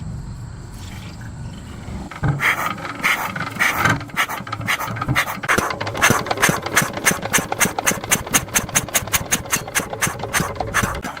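Rapid, rhythmic scraping strokes of a hand tool, quickening to about four or five strokes a second in the second half.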